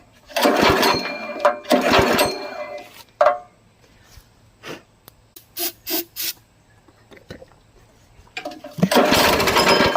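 208cc small engine on a chipper shredder being pull-started: it fires in two short bursts of running near the start, gives a few scattered pops, then catches briefly again near the end without keeping running. The owner takes it for an engine that is not getting enough gas.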